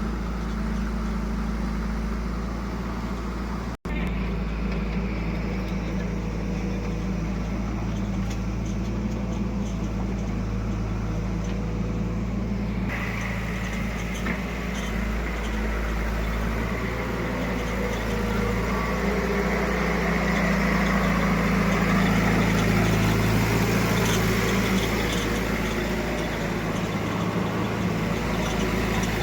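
Heavy diesel engines of a backhoe loader and tractors running steadily at work, with a brief cut-out of sound about four seconds in.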